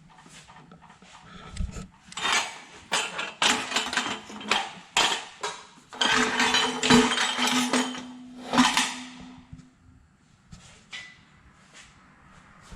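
Metal clanking and knocking as a hand-welded steel tube exhaust manifold is handled and set against the engine. There is a dense run of knocks, with a brief ringing tone in the middle, and it dies away after about nine seconds.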